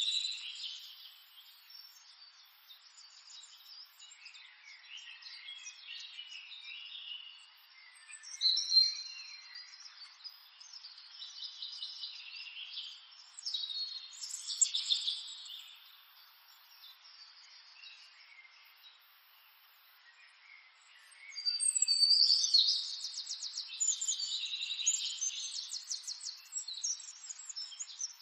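Birds chirping and singing in irregular bursts, with a fast trill of repeated notes in the last third.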